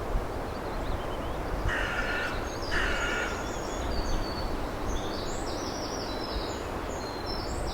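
Outdoor bird ambience over a steady background hiss. A bird gives two harsh calls about a second apart, then smaller birds chirp in quick, high runs through the rest of the stretch.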